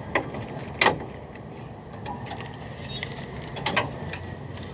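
A few short, sharp knocks, two in the first second and two in quick succession near the end, over steady background noise.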